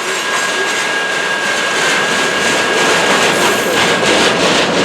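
CN freight train's cars rolling past with a steady rumble of wheels on rail, over a thin, steady high-pitched wheel squeal.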